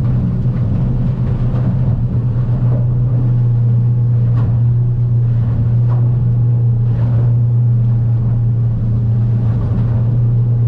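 Stabicraft 2050 Supercab aluminium boat under way in rough water: its outboard motor gives a steady low drone, and a few brief splashes of wave and spray hit the hull about four, six and seven seconds in.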